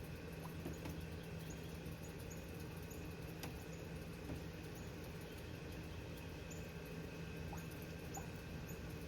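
Short, high chip notes from a small bird, repeated irregularly about once a second over a steady low hum, with one sharp click near the middle.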